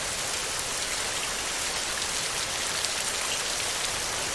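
Heavy rain falling on a metal roof: a steady hiss with many small, sharp drop ticks.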